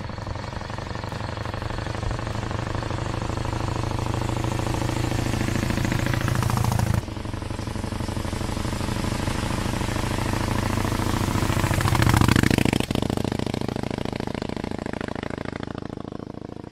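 A Morgan three-wheeler's engine as the car drives past twice. It grows louder as it approaches and is cut off suddenly about seven seconds in. On the second pass it peaks about twelve seconds in, drops in pitch as it goes by, and fades away.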